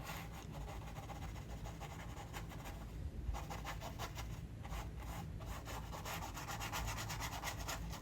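Repeated short rubbing strokes of an artist's tool working over the surface of a toucan artwork, more closely packed in the second half, with one soft knock about three seconds in.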